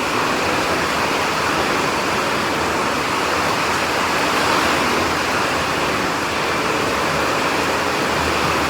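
Steady, even rushing of heavy rain, with no changes or single hits.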